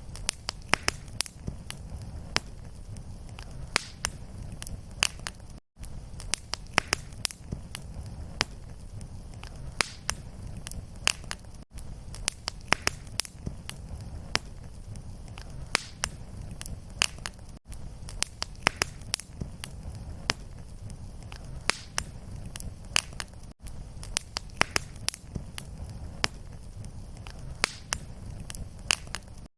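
Wood fire crackling in a fireplace: irregular sharp pops and snaps over a steady low rumble of the flames. A brief dropout comes about every six seconds where the looped recording restarts.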